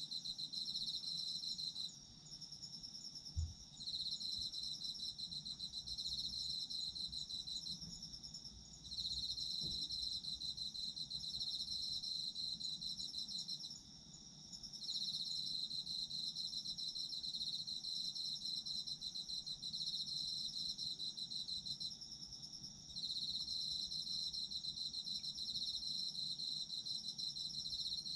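Autumn insects calling together in rapid, pulsing trills. One louder, lower trill breaks off for a second or so every several seconds and starts again, over a higher, steadier trill. A brief low thump comes about three seconds in.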